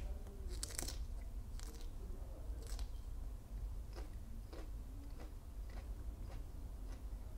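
Crisp crunching bites into raw magnolia petals, then closed-mouth chewing with soft crunches about twice a second that fade as the petals are chewed down.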